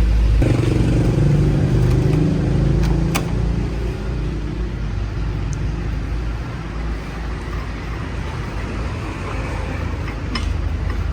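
A car engine running steadily, louder in the first few seconds and then settling, with a couple of light clicks.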